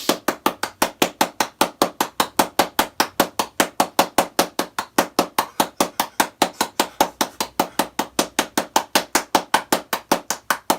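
Rapid, evenly spaced sharp knocks, about five a second, keeping a steady beat.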